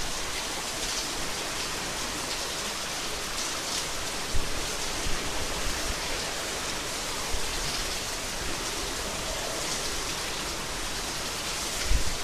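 Heavy rain pouring down steadily in a windstorm, with a few brief low thumps about a third of the way in and again near the end.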